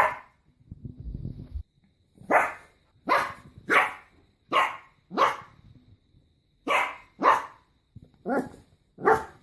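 A dog barking repeatedly, about ten sharp barks, many coming in pairs about half a second apart. About a second in there is a short low rumble between barks.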